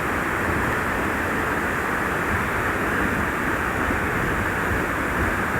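Steady rush of a waterfall, falling water making a continuous even roar.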